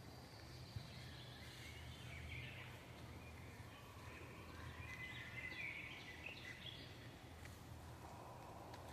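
Faint forest birdsong: several birds chirping and warbling in short phrases, busiest about halfway through, over a steady low wind rumble.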